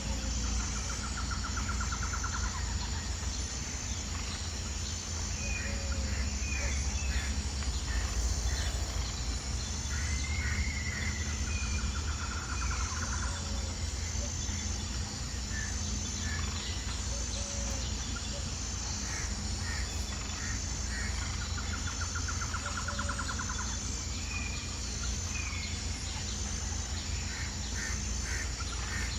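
Birds calling outdoors: a rapid trill comes back roughly every ten seconds, between shorter chirps. A steady high pulsing buzz and a low rumble run underneath.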